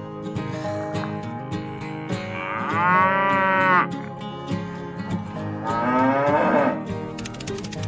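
Two long cow moos, the first about two and a half seconds in and the second near six seconds, over steady background music.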